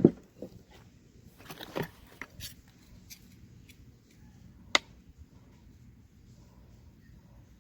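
A knock, then a cluster of light clicks about two seconds in and a single sharp click a little later.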